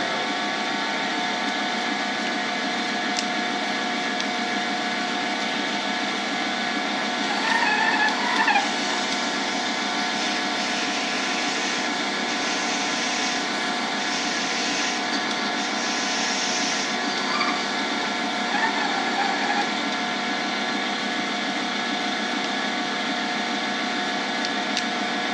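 A lathe running steadily while a drill bit fed from the tailstock bores a deep hole into the spinning shift-knob blank, with a couple of brief squeals partway through.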